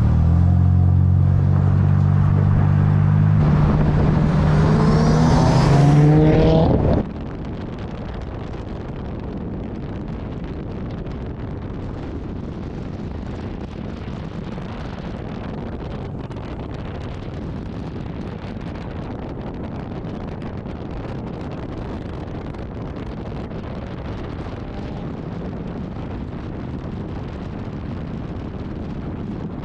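Steady road and wind noise of a car being driven, an even rush with no distinct events. It is preceded for the first seven seconds or so by a louder steady low drone with some gliding tones above it, which cuts off abruptly.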